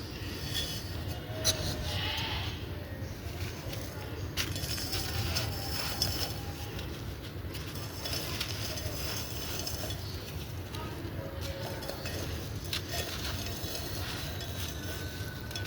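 Dried purple sand-cement chunks being crumbled and crushed by hand: crisp, dusty crunching and crackling, with a few sharp clicks as pieces break.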